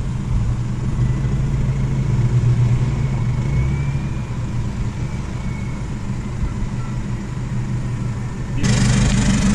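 Nissan Navara ute's engine running at low revs as it crawls through a deep rutted washout, a steady low drone. Near the end it cuts abruptly to a louder idling engine close by.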